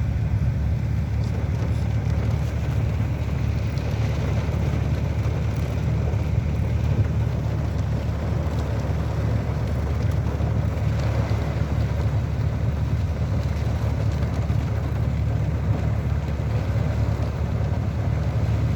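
Stormy rain weather: a steady low rumble of wind with rain, unchanging throughout.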